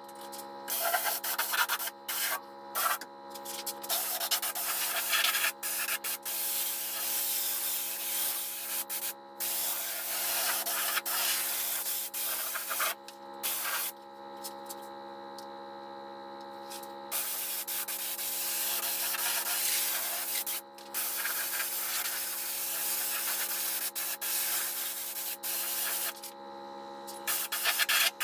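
Sanding: rubbing noise in long stretches with short pauses, the longest about halfway through, over a steady hum.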